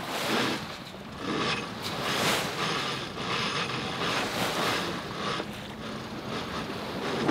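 A furling line hauled in a series of irregular pulls as a headsail is unrolled from a new roller furler, the line and furler gear rattling and running through their blocks.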